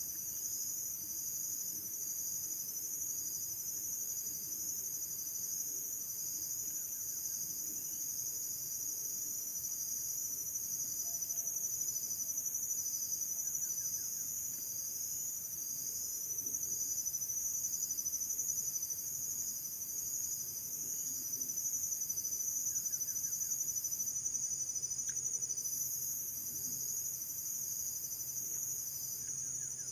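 Insect chorus trilling steadily at a high pitch, with the highest voices dropping out briefly about four-fifths of the way through.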